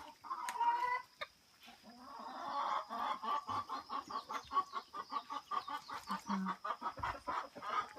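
Serama bantam chickens clucking, a short call about half a second in, then a fast run of clucks from about two and a half seconds in.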